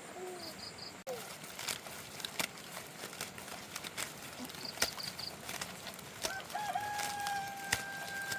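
A rooster crows about two-thirds of the way in, one long held call with a wavering start. Scattered sharp clicks sound throughout, and a small bird gives a quick three-note chirp near the middle.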